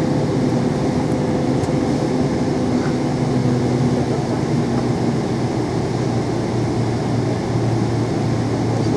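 Steady cabin noise inside a Boeing 777-300: a low rumble of engines and airflow, with a faint humming tone that fades out about four seconds in.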